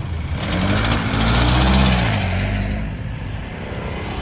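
A motor vehicle's engine passing close by. It grows louder from about half a second in, peaks near the middle with a rush of tyre and road noise, then fades, with steady traffic noise underneath.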